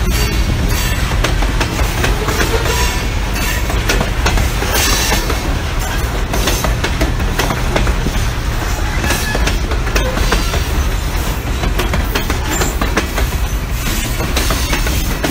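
Covered hopper cars of a freight train rolling past close by: a steady rumble of steel wheels on rail, with irregular clicks and clanks from the wheels passing over the rail joints.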